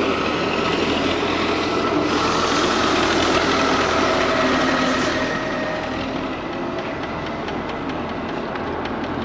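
Riding noise of a MiniPro Mi716 electric scooter on the move: a steady rush of wind and tyre noise with a faint even whine, easing a little about six seconds in.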